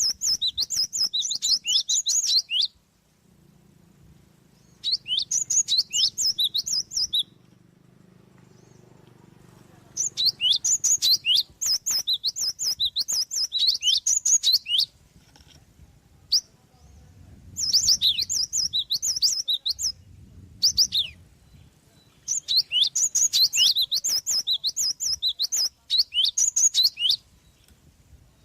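Java sparrow (glatik) singing: phrases of rapid, high, sharp chirps, about five phrases of two to five seconds each with short pauses between.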